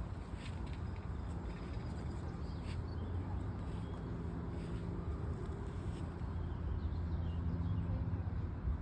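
Steady low rumble of road traffic, with a faint engine hum under it.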